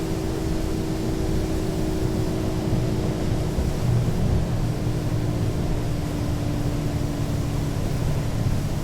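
Mercedes-Benz O 530 G Citaro articulated city bus under way: a steady low engine and driveline rumble with a faint whine that sinks slightly in pitch.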